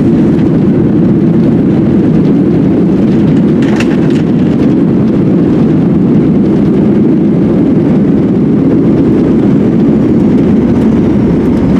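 Loud, steady roar of a Boeing 737-900ER's jet engines and rushing air heard inside the cabin as the jet lands, with a light rattle about four seconds in.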